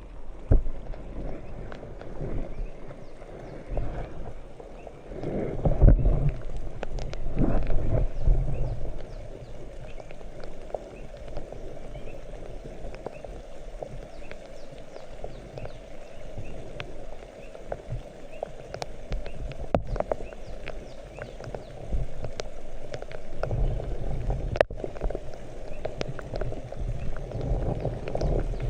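Rain falling steadily, with many scattered small knocks and clicks and louder low rumbling thumps at times.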